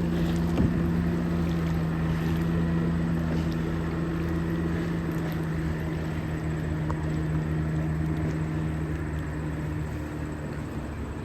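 A motorboat engine running steadily at an even pitch, its hum slowly fading near the end.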